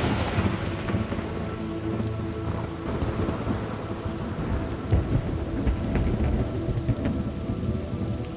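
Thunderstorm: steady rain falling with rolling thunder. A thunderclap that broke just before is dying away at the start, and low rumbling goes on underneath.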